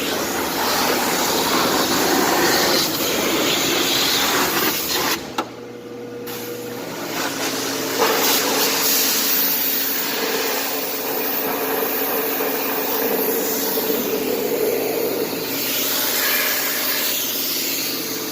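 Pressure washer spraying with a steady loud hiss over its engine's hum. The spray cuts out for about a second some five seconds in, leaving the engine's steady tone, then starts again.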